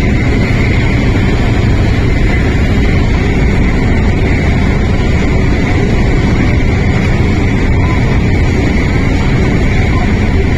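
Interior running noise of an MTR Tung Chung Line CAF train at speed: a loud, steady low rumble with a steady high whine above it.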